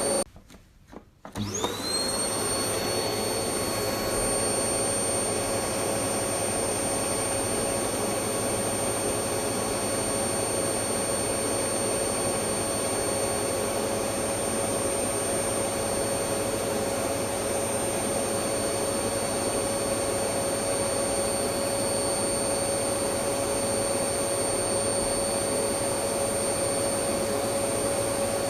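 Vacuum cleaner running steadily with a high motor whine over a broad rush of air. Near the start it cuts out for about a second, then the whine rises back up to full speed and holds steady.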